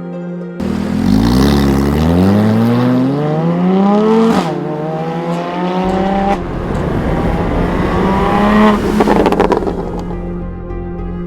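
Porsche Cayman 981 flat-six through an Armytrix valvetronic exhaust, accelerating hard through the gears. The revs climb and drop sharply at each upshift, and the run ends with a rapid crackle of exhaust pops on lift-off.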